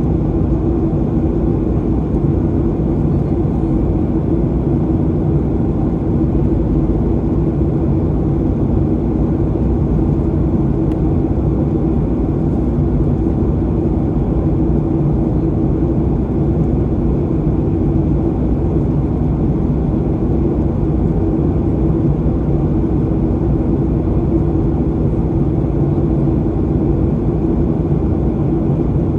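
Steady cabin drone of a Boeing 737-800 with its CFM56-7B turbofans, heard from a window seat in the rear cabin on final approach: a constant roar of engines and airflow with a low, even hum.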